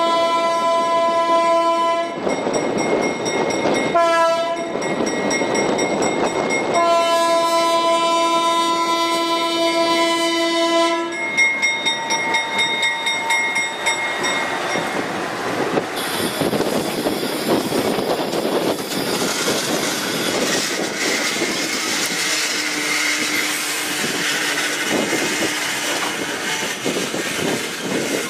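GE 65-ton center-cab switcher's horn sounding a long blast, a short one about four seconds in, and a longer one from about seven seconds in. After that, tank cars rolling past over the crossing, their wheels clacking over the rail joints with some squeal.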